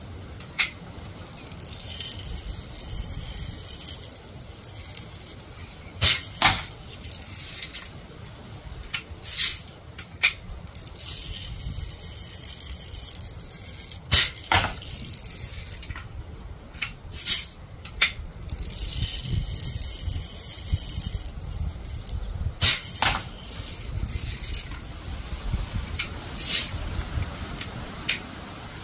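Air rifle shooting BBs at a steel target: a sharp shot about every eight seconds, each followed about half a second later by a second click as the BB strikes the target. Wind rumbles steadily on the microphone, with handling rattles between shots.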